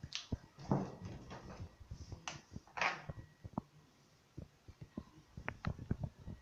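Irregular light clicks and knocks, with a few short rustling noises in the first half.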